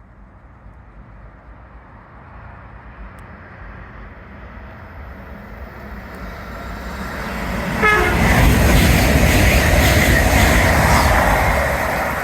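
Freight train approaching and running through the station, its rumble building steadily and then loud, with a short horn beep about eight seconds in as the locomotive arrives.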